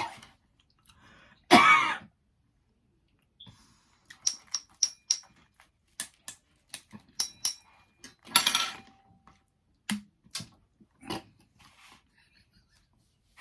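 Close-up eating sounds: scattered clicks and smacks of chewing pizza, with two short cough-like bursts, one about one and a half seconds in and another a little past the middle.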